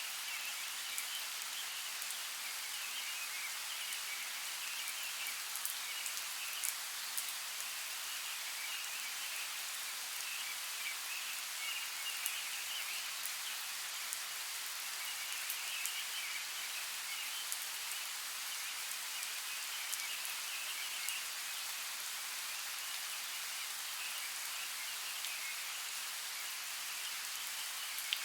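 Steady rain hiss with scattered sharper drops ticking through it.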